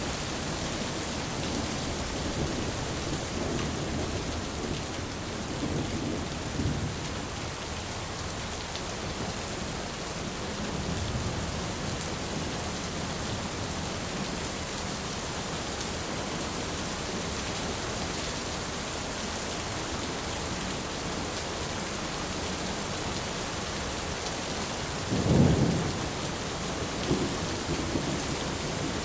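Thunderstorm: steady rain falling, with thunder rumbling low in the first several seconds and again briefly around eleven seconds in. Near the end comes a sharper, louder clap of thunder, the loudest sound, followed by a smaller one.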